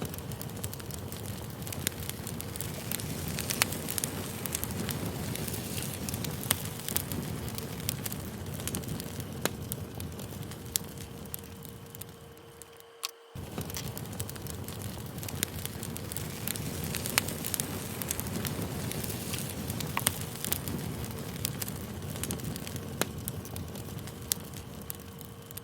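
Wood campfire crackling, a steady low rustle of flames with frequent sharp pops. It fades out and starts again about halfway through.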